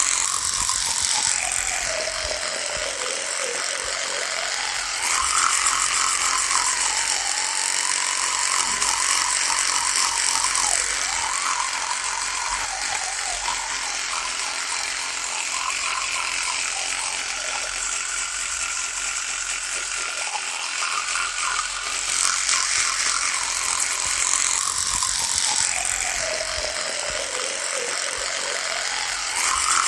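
Electric toothbrush buzzing without a break, its pitch sagging and climbing back several times as the motor is loaded and eased. It gets louder for stretches of a few seconds.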